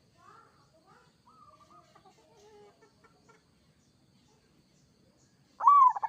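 Zebra dove (perkutut) calling: soft, varied bird calls in the first few seconds, then a loud, arched coo note near the end.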